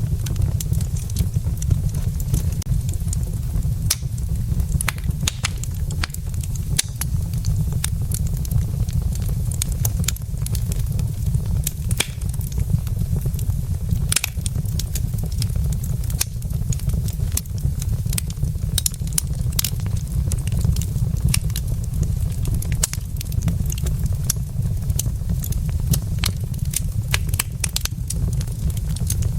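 Burning wood logs in a fireplace crackling and popping at irregular intervals, a few pops sharper than the rest, over a steady low rumble.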